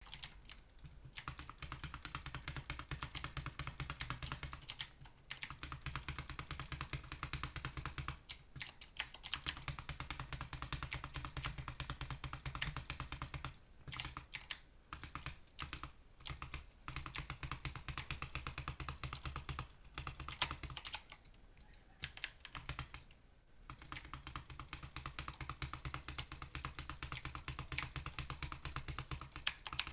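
Rapid, dense clicking in runs of several seconds, broken by short pauses, over a low steady hum.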